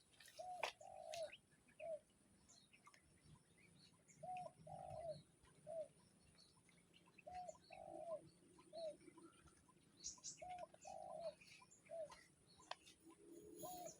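A dove cooing faintly: a short three-note phrase, the middle note longest, repeated about every three seconds.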